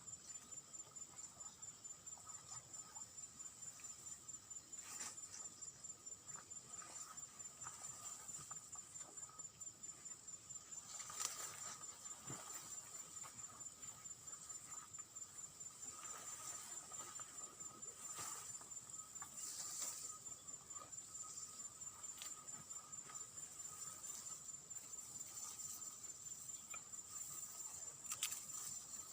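Insects trilling steadily, a high rapidly pulsing note over a fainter lower continuous one, with occasional short rustles or clicks.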